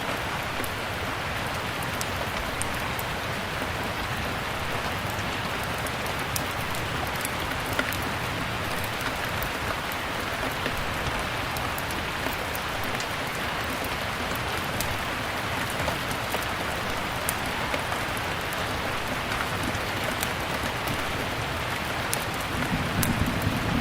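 Steady rain mixed with a crackling fireplace: an even rain hiss with scattered sharp pops and snaps. A low rumble swells in near the end.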